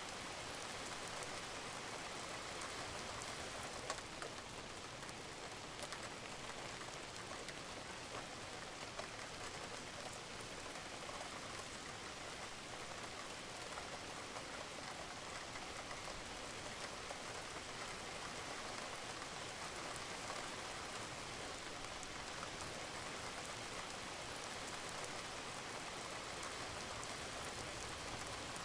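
Steady rain falling on a roof, an even hiss with scattered individual drops ticking through it.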